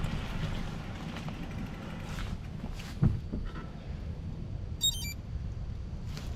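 Specialized Epic Pro mountain bike rolling along a trail, with a steady low rumble of tyres and wind on the microphone and a single knock about three seconds in. A brief high chirp sounds near the end.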